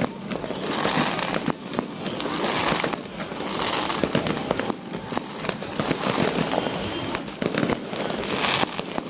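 Fireworks going off in a continuous barrage: many sharp bangs with swells of crackling bursts every second or two.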